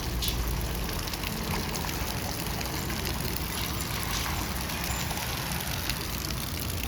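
Steady rush of rainwater running through a flooded street, with rain falling.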